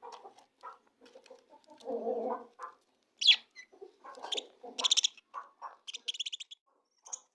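Budgies chattering in low, scratchy calls, then giving several sharp high chirps from about three seconds in, with a quick run of repeated chirps near the end.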